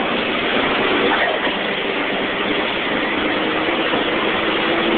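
Nissan SR20DET turbocharged four-cylinder in a Ford Escort, running steadily under way, heard from inside the cabin together with road and wind noise.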